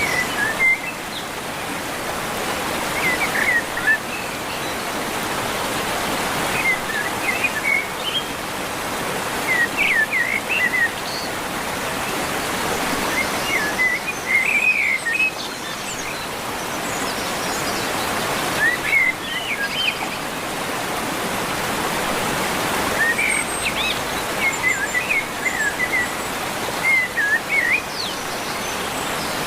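Birds singing short chirping, warbling phrases that come again every three to four seconds, over a steady rushing hiss.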